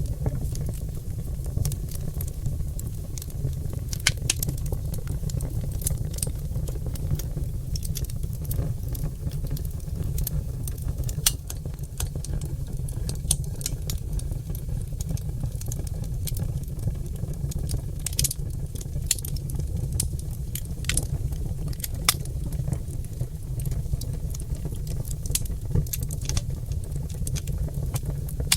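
Oak log fire crackling, with frequent irregular sharp pops and snaps over a steady low rumble of the flames.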